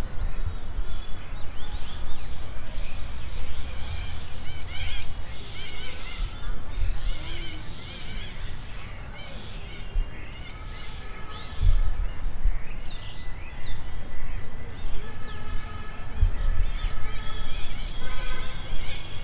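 Several birds chirping and calling, with many short, quick notes overlapping and some held whistled notes in the second half. A low rumble runs underneath and swells at times.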